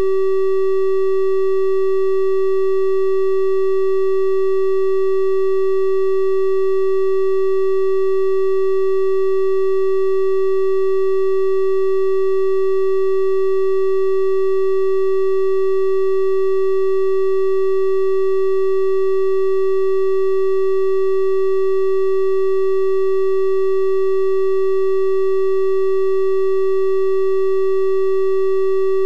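Electronically generated 384 Hz triangle-wave tone, held steady at one pitch with faint higher overtones.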